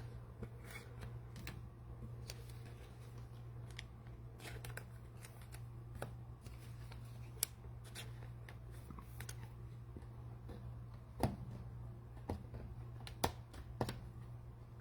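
Trading cards and cello pack wrappers being handled: light clicks, slides and rustles, with a few sharper snaps near the end. A steady low hum runs underneath.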